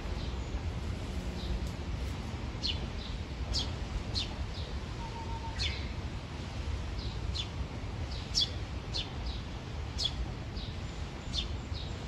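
Small songbirds calling in the trees: short, high, downward-sliding notes every half second to a second or so, over a steady low rumble.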